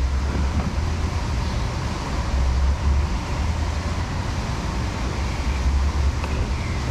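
A low, uneven rumble under an even hiss, with no single event standing out.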